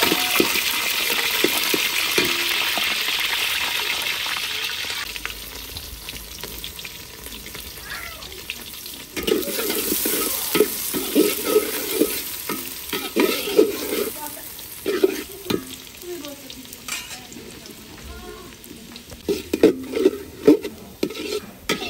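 Sliced onions and whole spices frying in hot mustard oil in an aluminium pot: a loud sizzle for the first few seconds that then dies down. After that comes a metal spatula stirring and scraping against the pot, in bursts.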